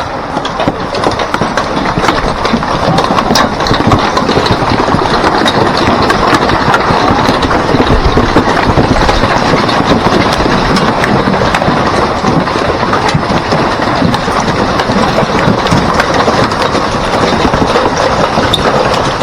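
Hailstorm with heavy rain: a loud, dense clatter of countless hailstones and raindrops striking, building a little over the first few seconds and then holding steady.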